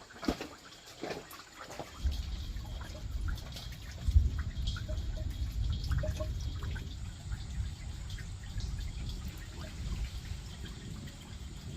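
Water dripping and trickling, with scattered small ticks, under a low rumble that starts about two seconds in.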